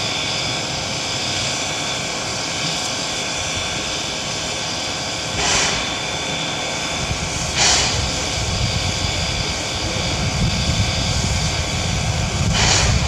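Steam locomotive running with a steady hum and hiss, broken by a few short bursts of steam, while a low rumble builds from about halfway through.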